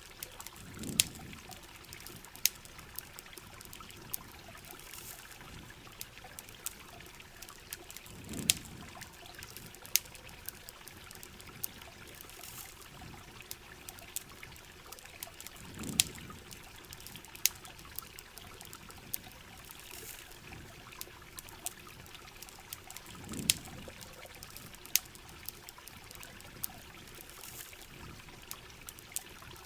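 Steady heavy rain hiss with sharp campfire crackles and pops scattered throughout. A low whoosh swells up about every seven and a half seconds.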